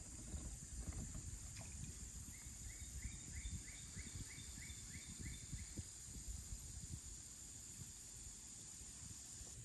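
Quiet outdoor ambience by a pond: a steady high-pitched insect-like drone and a low uneven rumble, with a bird calling a quick series of about ten short chirps, about three a second, from about two seconds in to about six seconds in.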